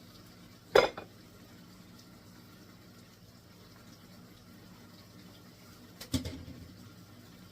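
Ground beef browning in a pan with a faint steady sizzle, broken twice by a sharp clatter of kitchenware, about a second in and again about six seconds in.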